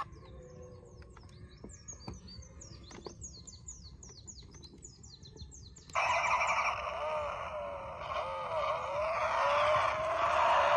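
Birds chirping in quick, repeated falling chirps over a quiet background. About six seconds in, a much louder sound cuts in abruptly, with wavering tones that end in a rising glide.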